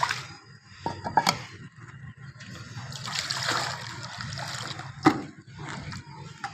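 Water being poured into a drinking dish, trickling and splashing for about two seconds in the middle, with a few short knocks before and after.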